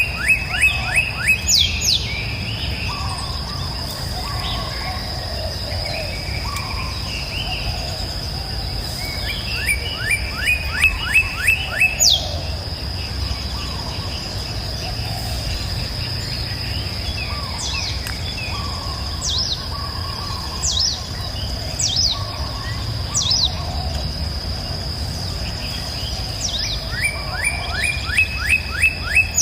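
Songbirds singing: three bursts of a fast trill of quickly repeated notes, one at the start, one about ten seconds in and one near the end, with thin high whistled notes in between. Under them run a steady high-pitched insect buzz and the low rushing of a river.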